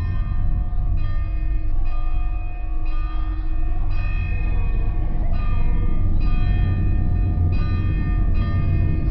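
A large bell tolling about once a second, each strike ringing on with many overtones, over a deep, steady low drone.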